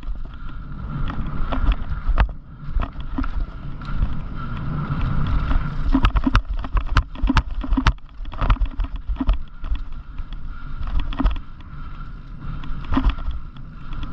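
Bicycle rolling over a rough trail: a steady rumble of tyres and wind buffeting the microphone, with sharp rattles and knocks from the bike over bumps, thickest about six to eight seconds in.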